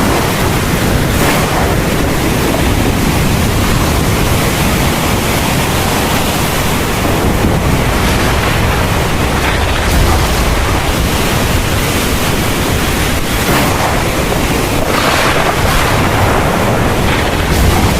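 Heavy thunderstorm rain pouring steadily, with a low rumble of thunder swelling about ten seconds in.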